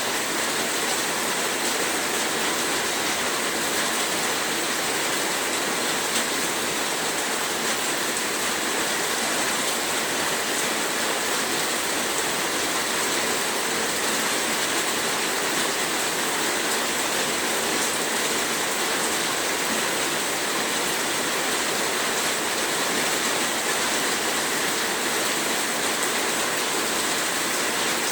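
Heavy rain falling in a dense, even downpour.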